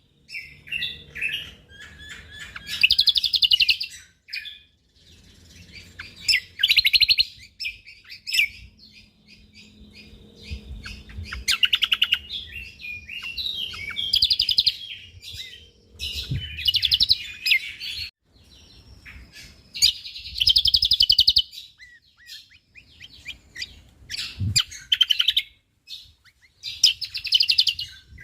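Cucak kombo (kecial kombo, the Javan grey-throated white-eye) singing: fast, dense bursts of chattering trills, about one every three to four seconds, with softer scattered chirps between them.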